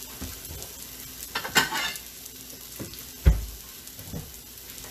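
Shredded hash browns sizzling on a hot electric griddle, with a short rustle about a second and a half in and a sharp thump a little after three seconds.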